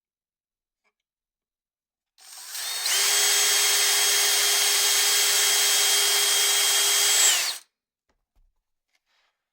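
A small electric power tool, such as a drill, running at a steady speed for about five seconds: it spins up quickly, holds one steady whine, then stops.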